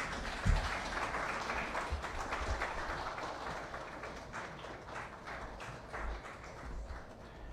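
Audience applauding, a dense patter of many hands clapping that gradually fades.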